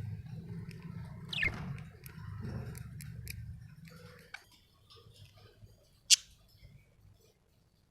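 A budgerigar making soft clicking and chattering sounds, with a short falling chirp about a second and a half in and one sharp, high chirp about six seconds in. A low hum runs underneath for the first half, then stops.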